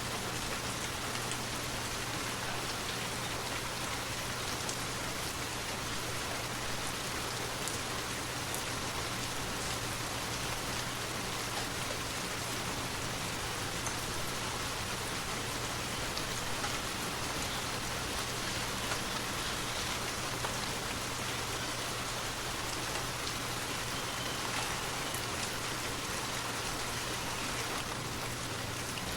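Steady rain falling as a continuous even hiss, with scattered individual drops and a faint low steady hum underneath.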